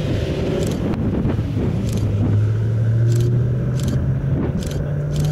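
A motor vehicle's engine running, its low hum rising in pitch about two seconds in and again near the end, with faint clicks about once a second over road noise.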